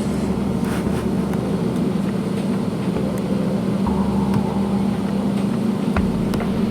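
Airliner cabin noise: a steady jet-engine hum and low rumble, with a few light clicks near the end.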